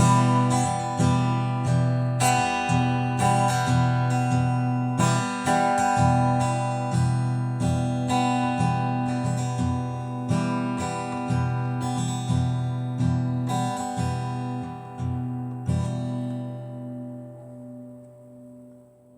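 Instrumental music: an acoustic guitar strummed in a steady rhythm, about two strums a second, fading out over the last few seconds.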